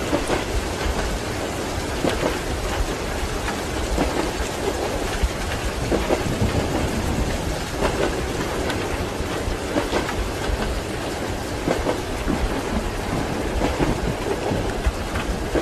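Steady rain mixed with the running of a train: a continuous low rumble and the clack of wheels over rail joints recurring about every two seconds.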